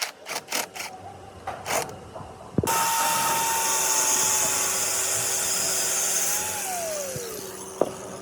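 A handheld power tool: a few short hissing strokes, then it runs steadily for about four seconds and winds down, its pitch falling away once released. A sharp click comes near the end.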